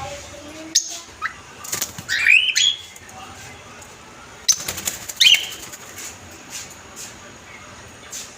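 Cockatiels calling: two short bursts of rising whistled calls, about two and five seconds in, among sharp clicks.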